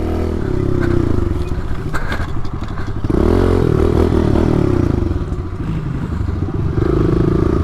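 Pit bike engine running under throttle, its pitch rising and falling as it revs and eases off, with a few clattering knocks about one and two seconds in.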